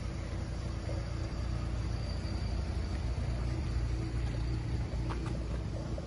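Police SUV engine idling close by: a steady low rumble with a faint steady hum above it, and a short click about five seconds in.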